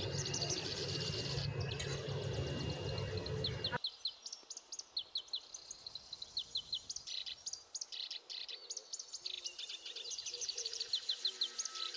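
Small birds chirping, many quick high chirps repeated throughout. A steady background noise with a low hum runs under them and cuts off suddenly about four seconds in.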